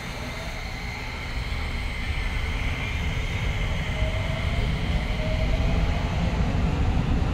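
A Keio Line electric train moving on the track across the platform, heard through open doors: a low rumble that grows steadily louder, with a faint motor whine rising in the middle.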